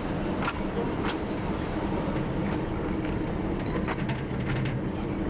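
TU7 narrow-gauge diesel locomotive under way, its engine droning steadily, with irregular clicks and knocks from the wheels running over the rails.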